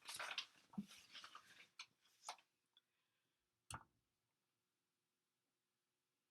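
Near silence: faint rustling in the first couple of seconds, then a single sharp click about halfway through.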